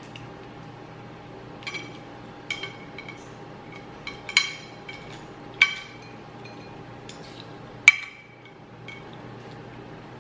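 Eating utensil clinking against a dish while eating: a scattering of short, sharp ringing clinks, the loudest one near the end.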